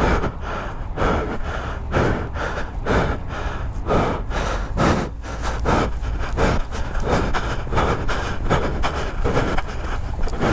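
A man's heavy, rapid breathing into a helmet-mounted microphone, about one hard breath a second, out of breath from running and adrenaline. A steady low rumble runs underneath.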